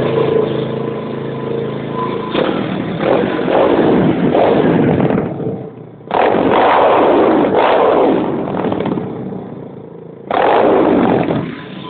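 Motorcycle engine idling, then revved hard three times: a long rev about two seconds in, another about six seconds in, and a short one near the end, falling back toward idle between them.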